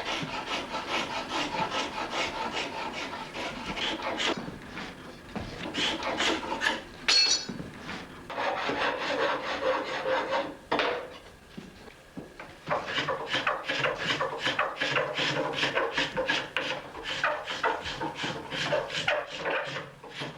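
Hand tool shaving a wooden saddle frame: quick repeated scraping strokes, a few a second, with a short pause about eleven seconds in.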